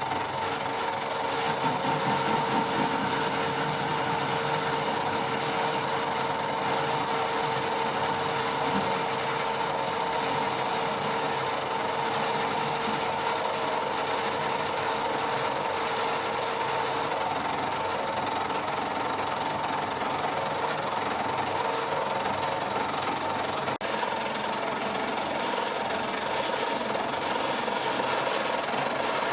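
Colchester Master lathe running steadily with its motor and gearbox whine, cutting the end of a bar held in the chuck. One of its steady tones drops away a little over halfway through.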